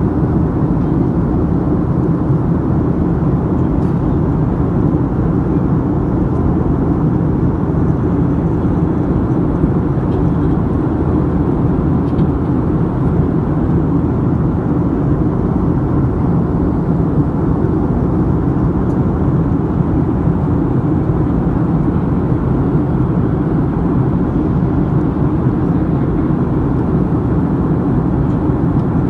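Steady cabin noise of an airliner in flight, a constant low rumble of engines and rushing air that does not change.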